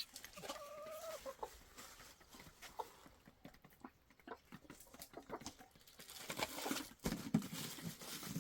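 Domestic chickens clucking, with one drawn-out call in the first second.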